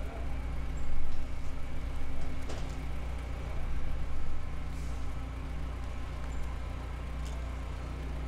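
Volkswagen hatchback's engine idling steadily, a low even hum.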